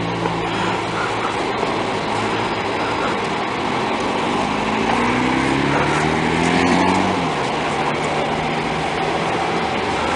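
Motorcycle engine running, its pitch climbing steadily for a few seconds before the note breaks off about seven seconds in.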